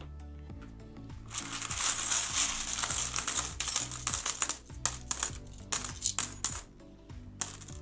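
Loose metal coins clinking and jingling as a hand rummages through a tub of coins: a dense jingle for a few seconds, then a handful of separate clinks. Background music with steady low notes plays underneath.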